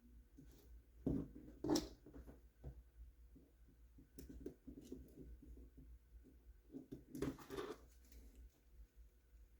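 Small plastic RC truck parts and screws being handled and fitted together by hand: scattered light clicks, taps and rattles, with the loudest clusters about a second in and again around seven seconds.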